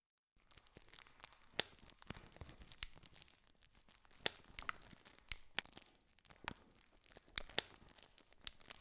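Wood campfire crackling: irregular sharp pops and snaps over a soft hiss. It starts suddenly out of silence just after the beginning.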